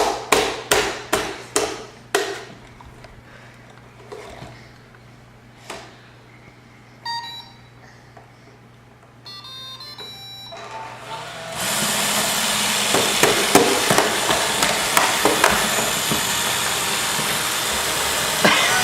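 A Roomba robot vacuum restarting. A quick run of knocks, about four a second, dies out about two seconds in. The Roomba then plays its short electronic beep tune in two parts, and about eleven seconds in its vacuum motor and brushes start running steadily, with small clicks.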